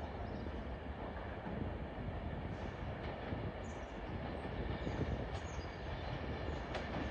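Train moving along the track: a steady rumble with a few faint clicks.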